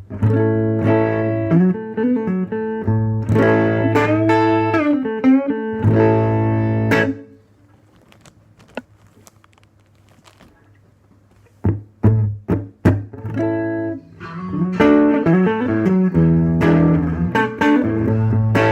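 Electric guitar played through an amp with a clean tone: a bluesy soul riff of low notes and chords with bent notes. The playing stops for about four seconds partway through, a few short stabs follow, and then the riff starts again.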